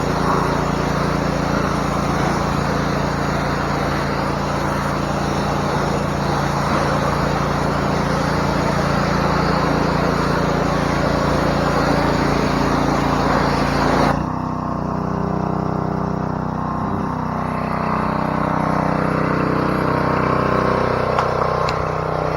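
Pressure washer running with its water jet spraying hard. About two-thirds of the way through the spray stops suddenly, and the motor keeps running with a steady, quieter drone.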